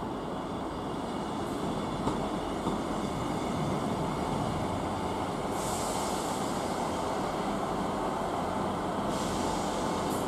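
British Rail Class 158 diesel multiple unit running slowly into the platform, its engine and wheels on the rails growing gradually louder as it approaches. A high hiss comes in twice, a little past halfway and again near the end.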